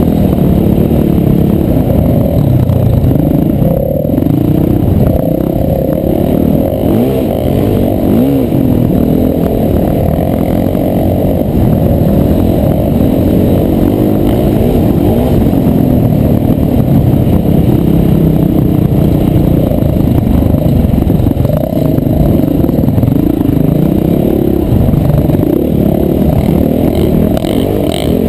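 Dirt bike engine running under load as it is ridden over sand, its pitch rising and falling as the throttle opens and closes, mixed with rumbling wind on a helmet-mounted camera's microphone.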